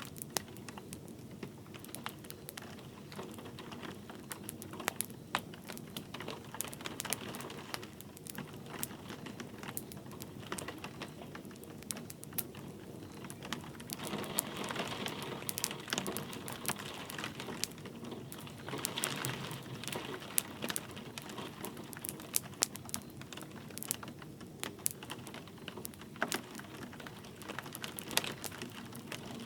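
Wood fire crackling, with irregular sharp pops and snaps over a soft steady hiss of light rain. The hiss swells for a few seconds about halfway through.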